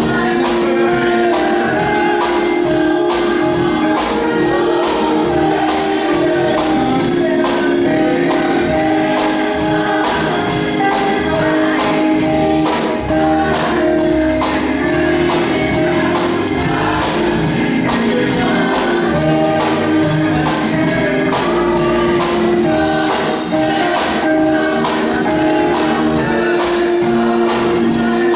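Gospel music: a choir singing with instruments and a tambourine keeping a steady beat.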